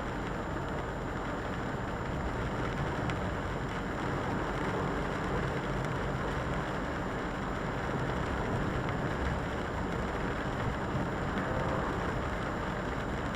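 Volvo FH articulated lorry on the move: a steady, even rumble and hiss of engine and wet-road tyre noise, with no distinct events.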